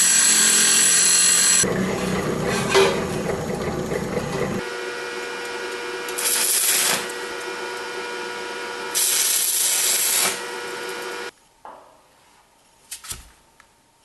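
A power tool running steadily at one pitch, with two louder hissing surges about six and nine seconds in; it cuts off suddenly about eleven seconds in, leaving a few faint knocks.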